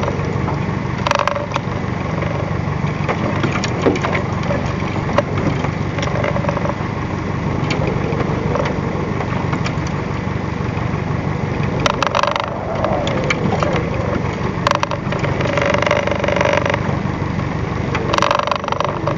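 Fishing boat's engine running steadily as a low rumble, with a few short knocks over it.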